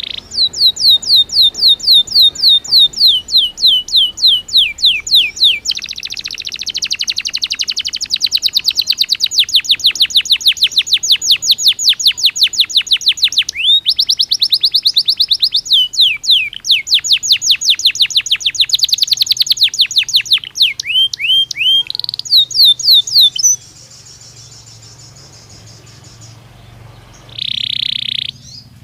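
Belgian canary singing: long rapid trills of repeated downward-sweeping whistled notes, several changing in speed and pitch, ending with a few slower notes; after a pause a single short call near the end.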